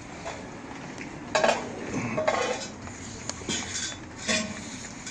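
Metal clanking and scraping as the steel pellet mesh basket of a wood-and-pellet stove is handled, in a few separate clanks, the loudest about a second and a half in.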